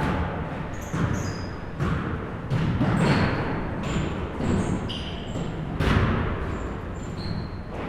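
Basketballs bouncing on a gym floor during play, a string of irregular thuds with one loud bounce about six seconds in, mixed with many short, high sneaker squeaks.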